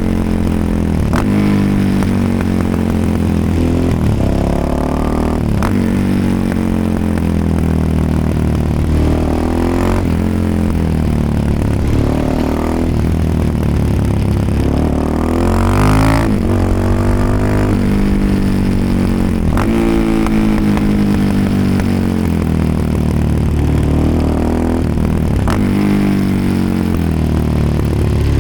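Suzuki DR-Z 400 SM supermoto's single-cylinder four-stroke engine, heard through a GPR aftermarket exhaust. It revs up and drops back over and over as the bike accelerates through the gears and eases off.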